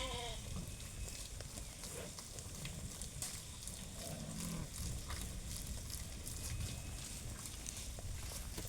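Steady heavy rain, a dense hiss with fine ticks of drops. A bleating call is just ending as it opens, and a short, low call from a farm animal comes about four seconds in.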